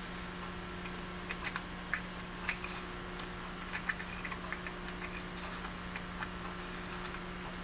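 Light, irregular clicks and ticks of a small metal hand tool working the tiny biopsy forceps retaining ring on a fiber optic endoscope's control body, over a steady low hum.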